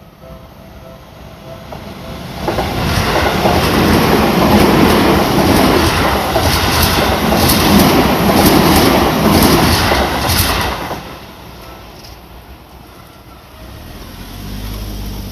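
A Seibu Shinjuku Line electric train passing over a level crossing. It builds up about two seconds in, clatters over the rail joints with a run of sharp clacks in the middle, and fades after about eleven seconds. The crossing's warning bell rings faintly beneath it before and after.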